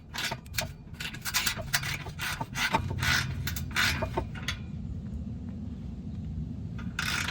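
Quick scraping and rubbing noises of hands and tools working on the car's exhaust system during removal, followed about four and a half seconds in by a low muffled rumble.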